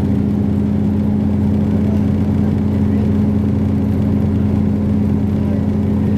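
State Railway of Thailand express train running, heard from inside the carriage: a steady, loud engine drone with a constant low hum over rolling noise.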